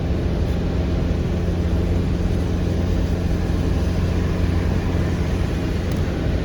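A car running in heavy rain: a steady low engine and road rumble under an even hiss.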